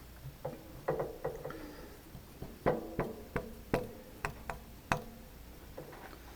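A series of about a dozen sharp metallic clinks and taps, each with a short ring, the loudest around the middle: steel tools and machine parts being handled and knocked together while a machining setup is made.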